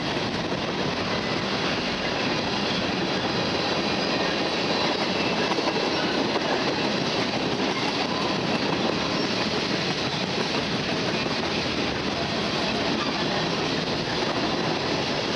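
Freight train cars, mostly tank cars, rolling steadily past at close range: continuous wheel-on-rail noise with no change in level.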